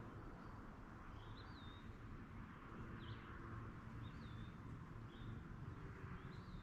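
A songbird singing short, repeated phrases, about one a second, faint over a low rumble of wind.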